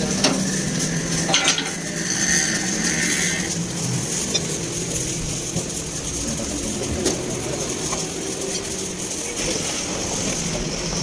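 Metal tools and parts clinking and scraping against each other, with a few sharp knocks in the first second or two over a steady low hum.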